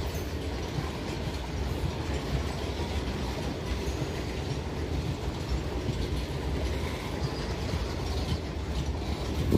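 Double-stack container freight wagons rolling past, their steel wheels running on the rails in a steady, low noise.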